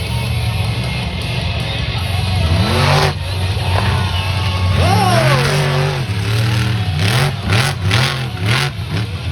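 Monster truck engine running loud, revving up twice, then blipped in a quick series of rising-and-falling revs in the second half.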